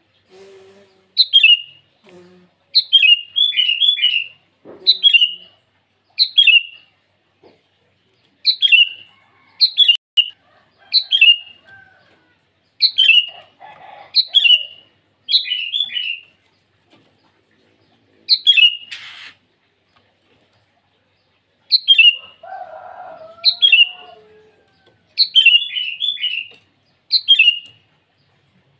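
Sooty-headed bulbul (kutilang) giving short, falling calls over and over, one every second or two and sometimes two or three in quick succession: a bulbul calling out to a rival. A fainter, lower bird call comes in about two-thirds of the way through.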